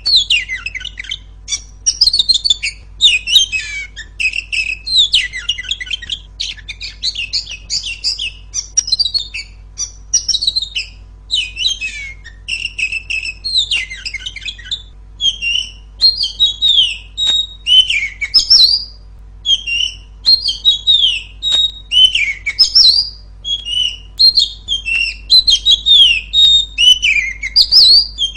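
Female oriental magpie-robin (kacer) singing loudly: a rapid, unbroken run of short high whistles, chirps and falling sweeps, phrase after phrase with only brief gaps.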